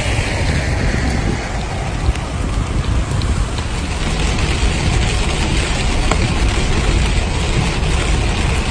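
Steady rain falling, with a steady low rumble underneath.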